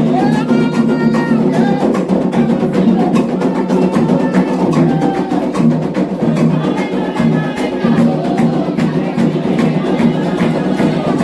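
Candomblé ritual music: atabaque hand drums keep up a dense, steady rhythm while voices sing a chant over them.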